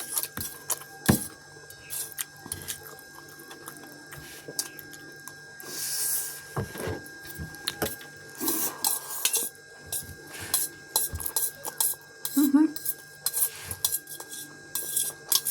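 Cutlery clinking and scraping against a bowl or plate during eating, in irregular sharp clicks and knocks.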